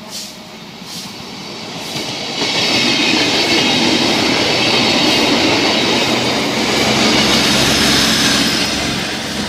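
Sancaka passenger train passing close by. The rail noise builds over about two seconds into a loud, steady rush of wheels on track, with high steady tones above it, and eases slightly near the end.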